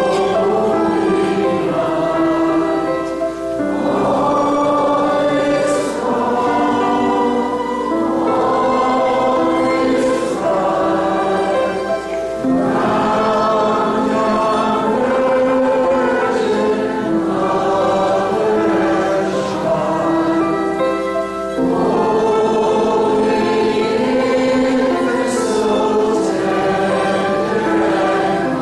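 A choir singing a slow Christmas hymn in long held phrases.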